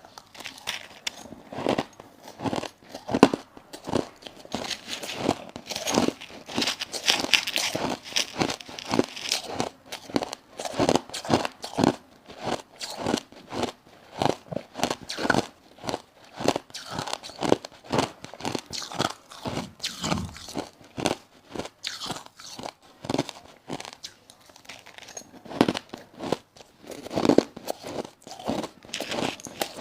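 Crushed ice being bitten and chewed close to the microphone: a dense, irregular run of sharp crunches and cracks, several a second.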